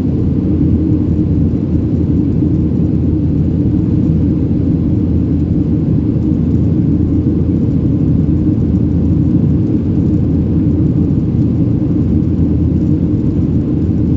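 Steady low rumble inside the economy cabin of a Boeing 737-700 under way: its CFM56 turbofans and the rushing air heard through the fuselage, holding even throughout.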